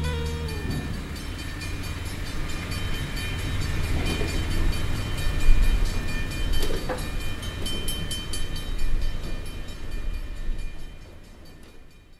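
Recording of a passing train: low rumble of wheels on the track with a couple of sharp clanks in the middle. It fades out near the end, after the last sustained chord of the music dies away in the first moment.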